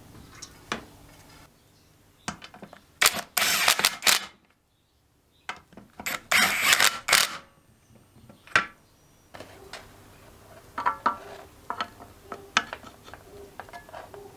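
Hand tools and metal engine parts being worked during reassembly of a Kohler K301 engine: scattered clicks and knocks, with two louder bursts of rapid clicking about three and six seconds in.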